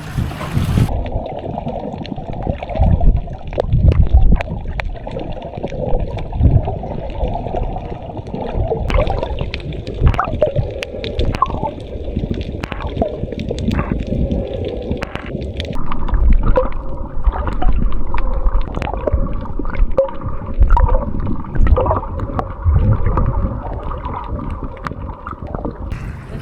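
Muffled water gurgling and sloshing, with uneven low thumps and scattered clicks; the high end is cut off from about a second in.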